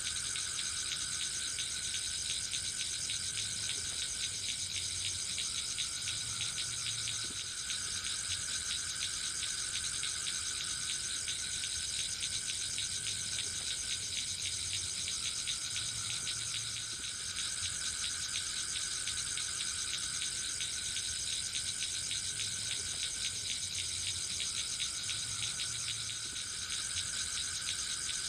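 A steady, dense chorus of forest insects chirring in fast, even pulses, high-pitched and unbroken.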